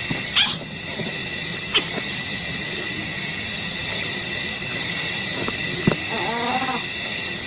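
Wild animal sounds over a steady high-pitched chirring drone: a few short calls, and a wavering, cry-like call about six seconds in.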